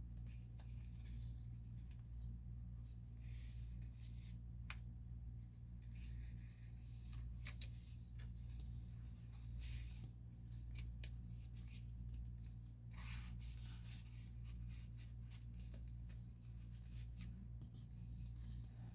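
Faint rustling and small ticks of paper pages and card pieces of a handmade junk journal being handled and turned, over a steady low hum.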